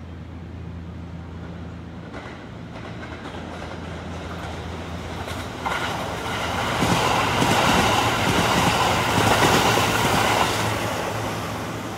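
Kintetsu 22600 and 22000 series limited express electric train running through the station at speed without stopping. The noise grows as it approaches, steps up suddenly a little before six seconds in, is loudest from about seven to ten seconds in, then fades as the train goes by.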